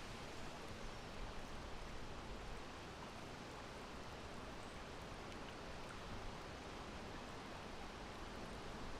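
Soft, steady breeze: an even rushing noise with no distinct gusts, a little louder near the end.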